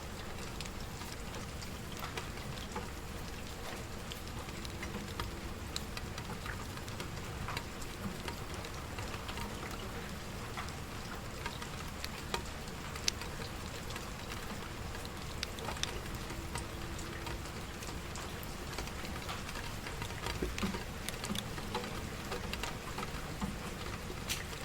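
Steady rain with a wood fire crackling, giving scattered sharp pops and snaps over the even hiss.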